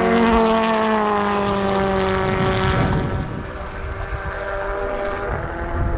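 Touring car's turbocharged four-cylinder engine passing at speed, its note falling steadily for about two seconds and then fading away. Another car's engine comes in near the end.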